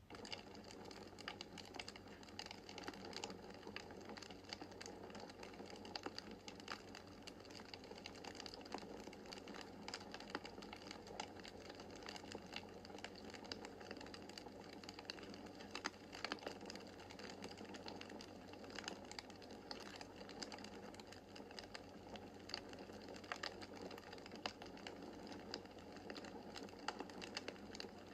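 Wood fire in a fireplace crackling, a steady run of small pops and snaps over a soft rushing bed. It starts suddenly at the beginning.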